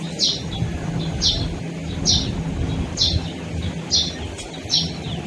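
A bird chirps over and over, a short high falling chirp about once a second. Beneath it is the low rumble of an MTR East Rail Line R-train electric multiple unit pulling into the platform.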